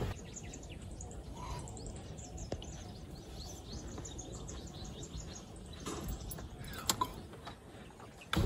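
Birds chirping, many short high calls repeating over a faint steady background of ambient noise, with a few louder chirps near the end.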